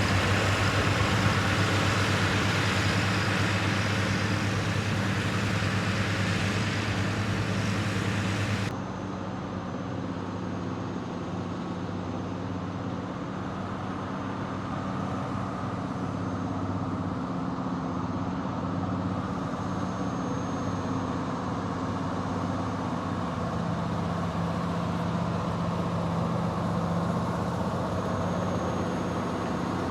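Heavy truck engine running steadily under load. About nine seconds in, the hiss drops away abruptly and the engine note carries on a little quieter.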